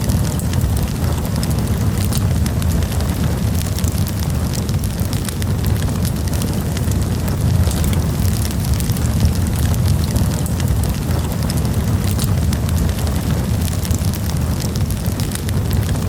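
Campfire burning steadily: a continuous low rumble of flames with many small, irregular crackles and pops throughout.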